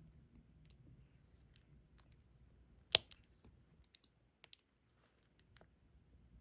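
Scattered small clicks and taps of a diamond painting pen picking up resin drills and pressing them onto the sticky canvas, with one sharper click about three seconds in.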